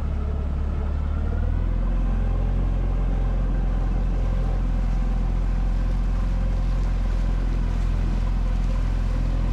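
Suzuki outboard motor running steadily, a loud low drone that drops to a lower note about a second and a half in.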